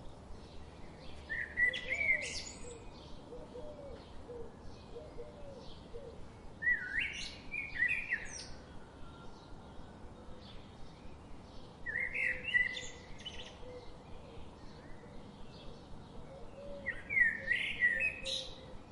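A songbird singing a short, loud phrase four times, about every five seconds, over fainter steady chirping of other birds.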